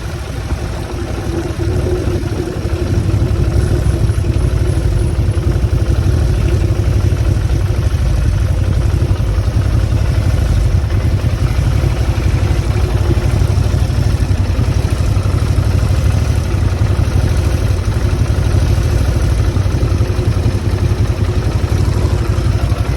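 Motorcycle engine running steadily while the bike is ridden, with a heavy low rumble that grows louder about two seconds in.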